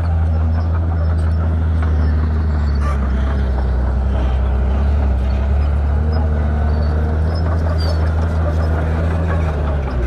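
Shantui bulldozer's diesel engine running steadily under load, with a deep, even tone that shifts slightly in pitch and dips briefly at the very end.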